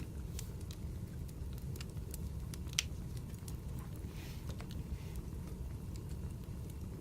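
Wood fire crackling: irregular pops and snaps over a steady low rumble of burning logs, with one sharper pop about three seconds in.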